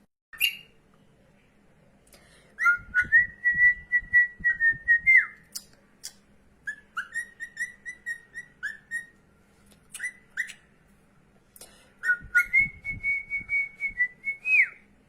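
Cockatiel whistling a tune: three phrases of quick notes held near one pitch, with short sharp chirps between the phrases.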